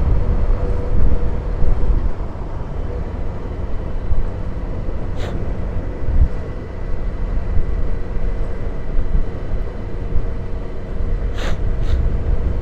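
Motorcycle on the move, heard from the rider's camera: a steady low rumble of engine and wind noise, with a few short clicks about five seconds in and twice near the end.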